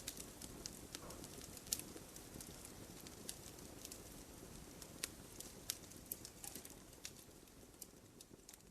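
Wood fire burning in a fireplace: scattered sharp crackles and pops, a few per second at irregular intervals, over a low steady rush of flame. It grows quieter near the end.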